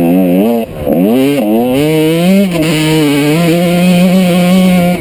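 1995 Honda CR125's single-cylinder two-stroke engine running hard under load. The throttle is chopped about a second in and the revs climb straight back, with a second short dip just after, before a long high-revving pull.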